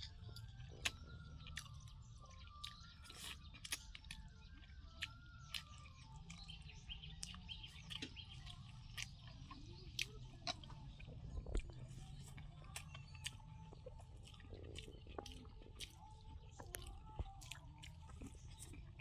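Close-up eating sounds: wet chewing and lip-smacking clicks at an irregular pace, with faint bird chirps in the background.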